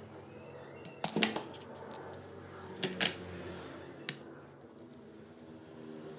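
Small metal parts clinking against a hard surface, a handful of sharp clinks in the first four seconds, over a faint steady hum.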